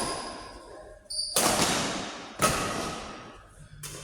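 Two sharp, loud hits about a second apart, each ringing briefly in a large hall, then a fainter knock near the end; short high squeaks at the start.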